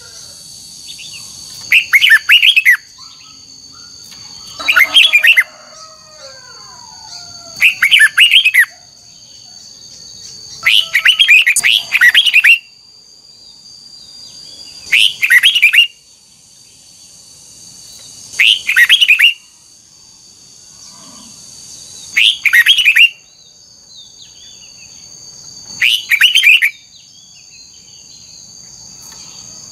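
Red-whiskered bulbul singing short, loud whistled phrases, one about every three to four seconds, over a faint steady high-pitched whine.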